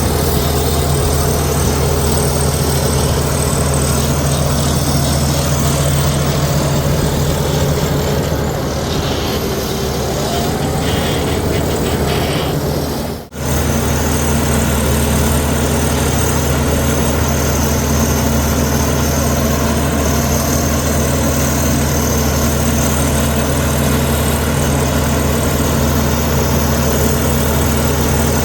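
Komatsu D61EX bulldozer's diesel engine running steadily under work, with a brief drop out about halfway through.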